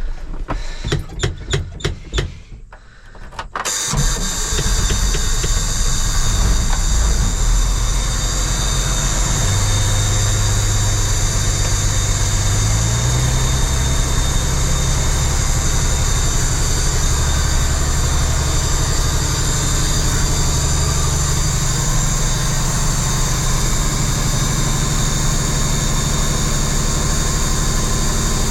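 1995 Ford L8000 dump truck's diesel engine cranking over with rhythmic knocks for a few seconds, then catching and running steadily at idle. The idle steps up in pitch twice, around ten and thirteen seconds in.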